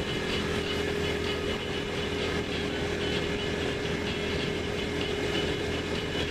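Aprilia Tuono V4 1100RR's V4 engine running at steady revs, without revving up or down.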